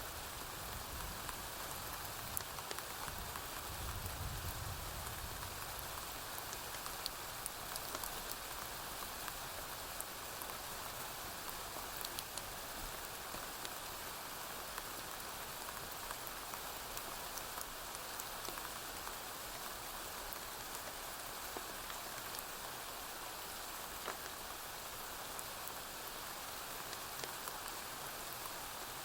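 Steady rain falling on a porch roof, with scattered sharp crackles from a wood fire. A low, distant thunder rumble sits under the rain in the first few seconds.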